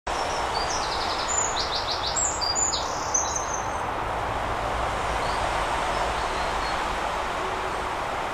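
A small bird singing in short phrases of high, quick repeated notes during the first three seconds, over a steady rushing background noise.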